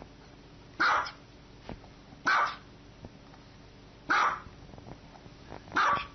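A small white fluffy dog barking four times, single high-pitched barks spaced evenly about every second and a half.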